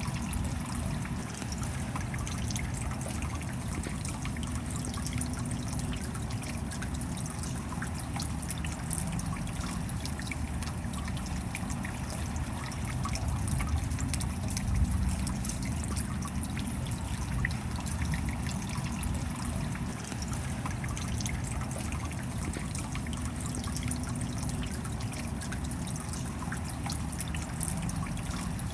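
Steady rain falling, with fine drops pattering and water trickling and dripping, and no break in the sound.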